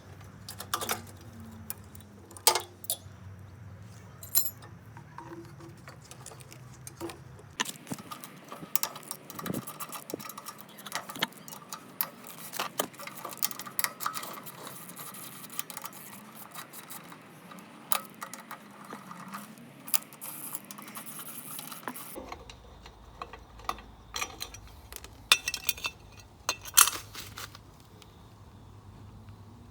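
Hand tools and metal mower parts clinking and clicking as a four-stroke lawn mower is dismantled, with scattered short knocks and rattles over a low hum.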